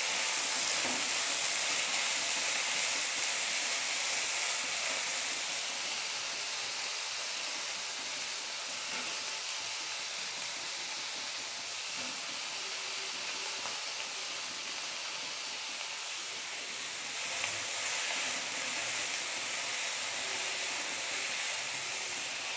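Diced raw potatoes frying in ghee in a wok-shaped kadhai, with a steady sizzle that is a little louder in the first few seconds. The sizzle is the potatoes' moisture cooking off as they fry towards golden brown.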